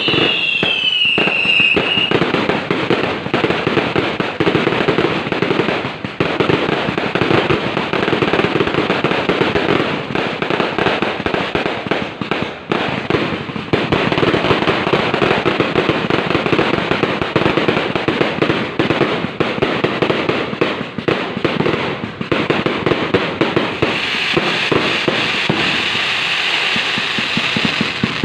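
Fireworks and firecrackers going off in a dense, continuous barrage of rapid crackling bangs. A falling whistle is heard in the first two seconds, and a held high whistle comes in near the end.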